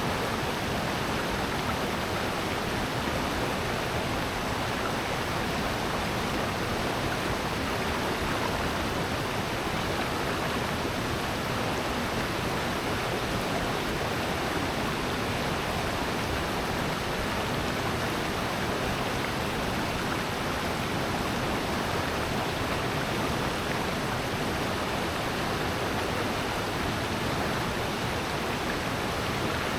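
Valley stream water rushing over rocks, a steady, even rush with no breaks.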